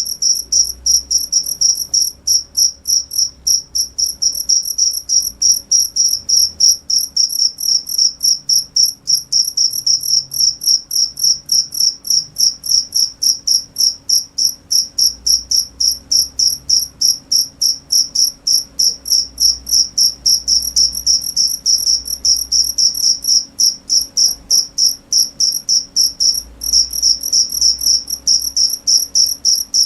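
A cricket chirping steadily: a high, even chirp repeated rapidly, several times a second, without pause.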